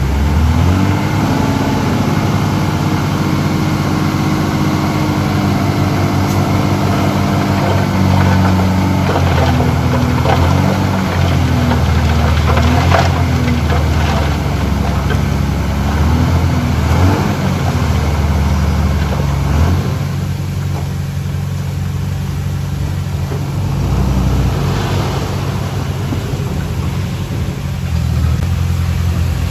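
Diesel engine of heavy earthmoving machinery running and changing speed as it works, easing off in the later part. There are clanks and rattles around the middle.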